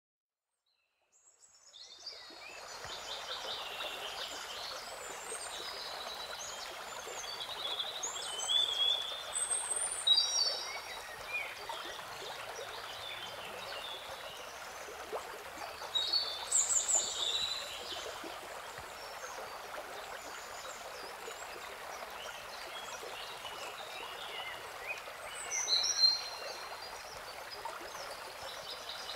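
Birds chirping and trilling in several short clusters over a steady rushing noise, all fading in over the first two seconds.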